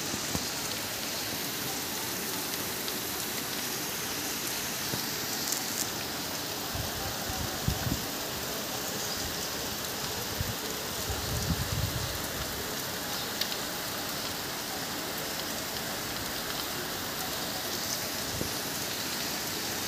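Steady rain falling on clay-tiled roofs and trees, an even, continuous hiss. A few brief low thumps come near the middle.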